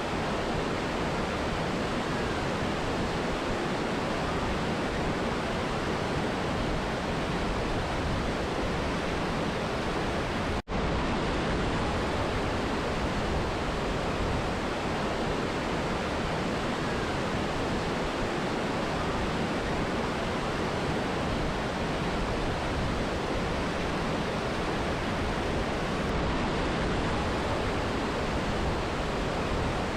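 Mountain river and waterfall: a steady, even rush of water. The sound cuts out for an instant about ten seconds in, then resumes unchanged.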